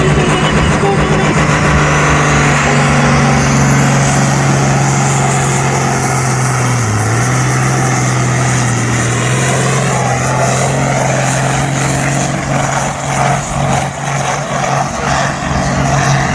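Six-cylinder turbocharged pulling tractor running hard, pulling the weight sledge down the track. Its engine holds a steady low note, with a high whine rising over the first few seconds.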